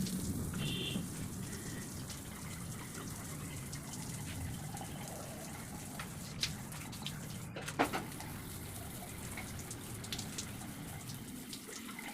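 Water running steadily from a tap, with a few sharp clicks or knocks around the middle.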